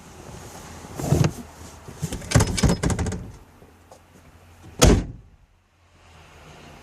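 A car door on a Ford Thunderbird is shut with one solid thud about five seconds in. Before it come scattered knocks and rustling as someone climbs in.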